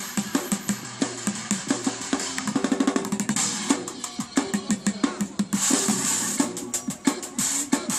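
Bucket drummer playing fast rhythms on upturned buckets and barrels, dense strike after strike, with a quick run of rapid strokes about three seconds in.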